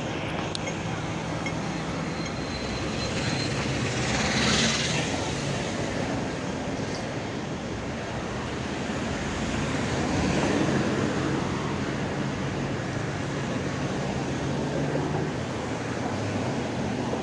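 Steady rumble of vehicle traffic, with two louder swells as something passes, one about four seconds in and one near ten seconds in.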